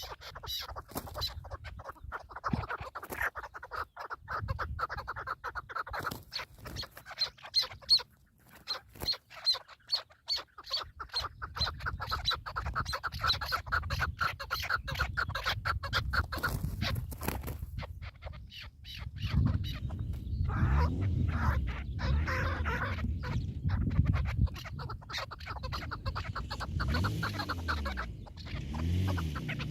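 Partridge calling a long run of fast, repeated clucking notes. A low rumble joins in during the second half.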